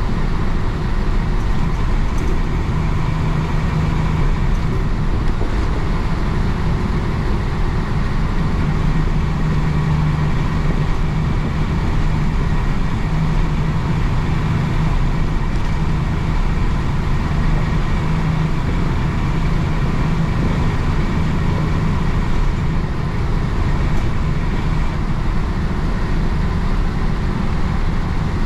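1966 Isuzu BXD30 bonnet bus's DA640 inline-six diesel engine running steadily while the bus drives along, its pitch rising and falling slightly, with road noise.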